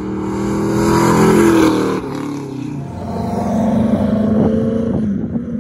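1969 Mustang Fastback's 351 Windsor V8, with ported heads and an E303 cam, driving past on the road, its exhaust note swelling as it nears. About two seconds in the sound drops suddenly, then the engine builds again as the car passes close and pulls away.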